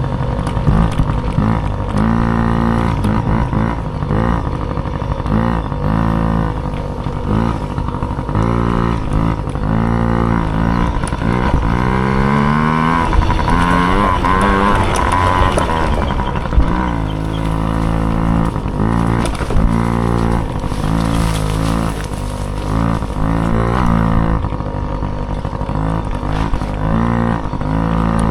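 Small dirt bike engine being ridden hard, its revs climbing and falling back again and again as the throttle is opened and closed, with one longer pull to high revs about halfway through, over a steady low rumble.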